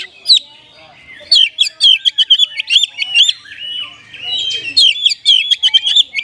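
Oriental magpie-robin (kacer) singing a rapid run of short, high chirping and whistled notes in a style mimicking the kapas tembak. There is a brief pause about half a second in, then fast unbroken runs.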